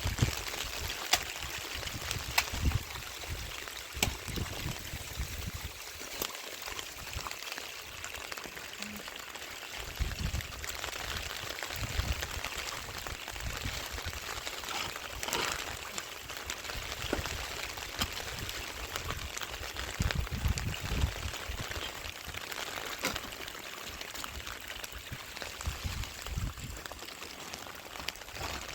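Steady rain falling, with water trickling and scattered drops striking close by. Low rumbles come and go throughout.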